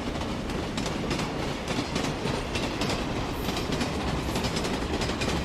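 Train running along the track: a steady noise with many quick, faint clacks of the wheels.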